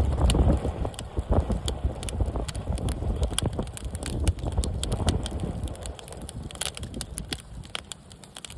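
Wood campfire crackling with many sharp pops, under gusty wind buffeting the microphone that eases off near the end.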